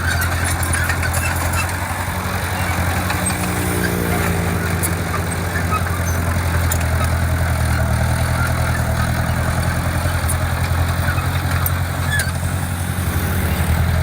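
Diesel engine of heavy construction equipment running steadily, with a brief shift in engine pitch about four seconds in.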